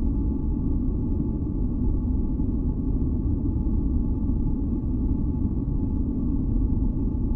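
Steady masking noise of the deep, brown-noise kind: a dense low rumbling hiss with two faint steady tones above it, with no change in level or pitch.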